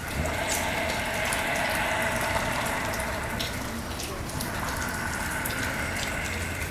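Rain falling, with scattered drop ticks under a steady rushing hiss that comes in at the start, eases a little past the middle and picks up again.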